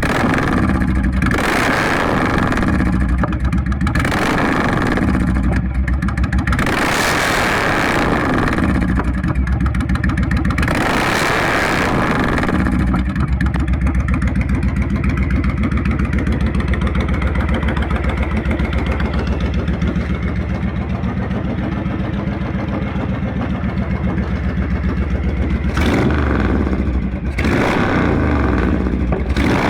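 Honda VTX 1300's V-twin engine heard at the exhaust, revved in a series of short throttle blips, then running steadily, with two more blips near the end.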